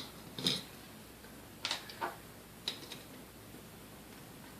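A few light, separate clicks and taps of small parts of a KitchenAid A9 coffee grinder being handled while it is taken apart.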